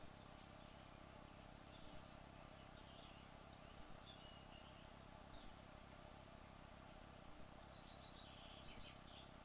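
Near silence: a faint steady hiss with a few faint, short, high chirps scattered through it.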